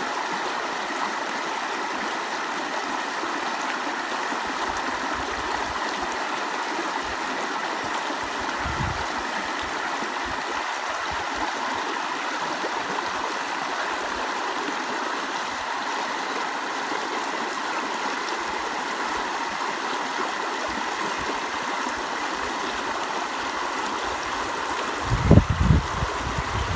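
Stream of water flowing with a steady, even rush. Near the end come a few low thumps, the loudest sounds here.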